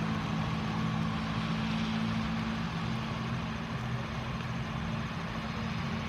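Boeing 737-800's CFM56 jet engines running at taxi power, a steady low hum with an even hiss of rain over it.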